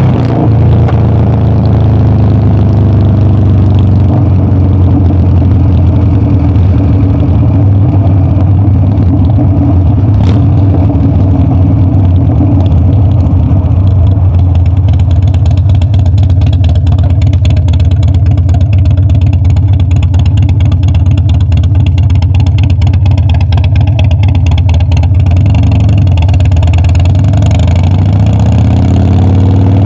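Harley-Davidson Dyna's V-twin engine running loud and even at a steady speed, then beginning to rev up again near the end.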